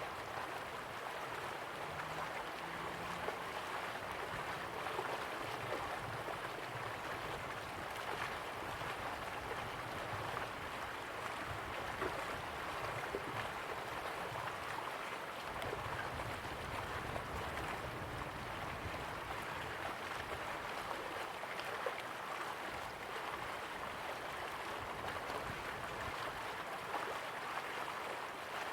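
River water flowing slowly, a steady rush with small splashes and trickles.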